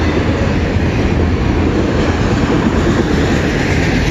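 Autorack cars of a long freight train rolling past, a loud, steady rumble and rattle of steel wheels on the rails.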